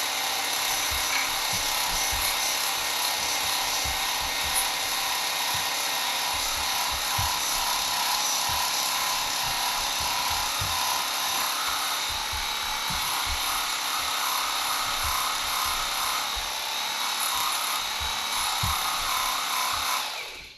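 Small belt sander running a finer-grit belt and grinding a lopper blade's edge, a steady loud motor and abrasive hiss that shifts slightly as the blade is worked, then shuts off near the end.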